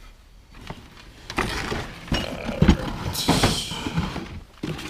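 Clatter of objects and boxes being handled and shifted: a quick run of knocks and clicks, with a louder rustling clatter a little past the middle.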